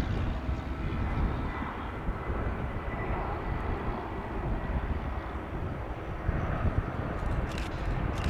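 Jet airliner engines running: a steady rumble with a faint high whine, and a few short clicks near the end.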